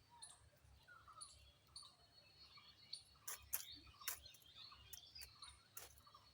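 Faint outdoor ambience with scattered short bird chirps and a few sharp clicks, the loudest just past the middle.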